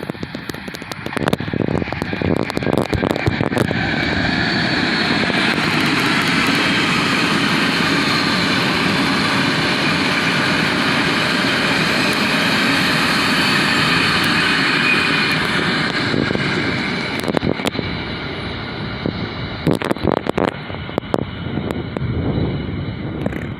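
BART Fleet of the Future train going by on the track: a loud, steady rush of wheel and motor noise that builds over about four seconds, holds, and fades after about sixteen seconds, with a run of sharp clicks near the end.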